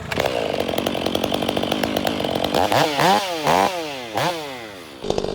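Two-stroke chainsaw hot-started: the warm engine catches at once and idles, then is revved up and back down several times before settling to idle again.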